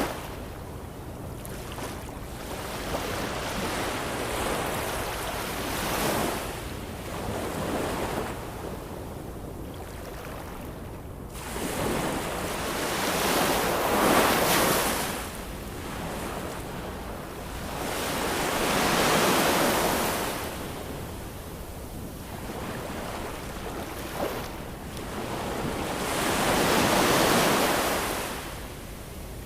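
Ocean waves breaking and washing ashore, rising into a louder surge every few seconds and falling back between.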